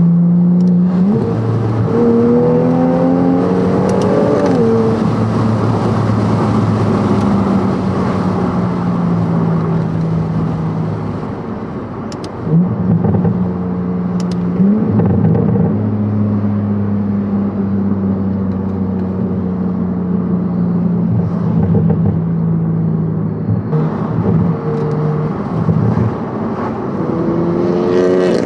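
Toyota GR Supra's B58 turbocharged inline-six, fitted with an RK Titanium exhaust and an AMS catted downpipe, being driven. Its pitch climbs for the first few seconds and drops sharply, then it cruises at steady revs. The revs dip and rise briefly a few times around the middle and later on, and climb again near the end.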